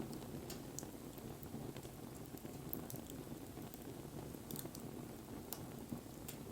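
Wood campfire burning: a low steady rumble of flames with irregular sharp crackles and pops from the burning wood.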